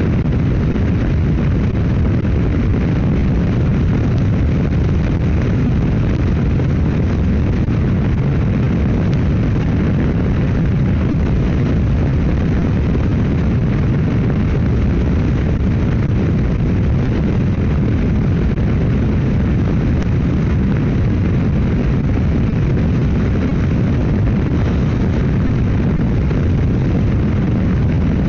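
Motorcycle riding at steady road speed: constant wind rush buffeting the microphone, mixed with engine and road noise, with no change in pitch.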